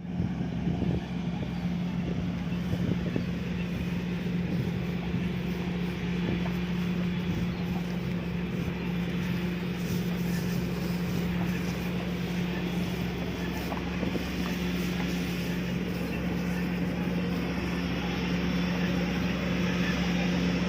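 Rice combine harvester running with a steady, unchanging engine drone.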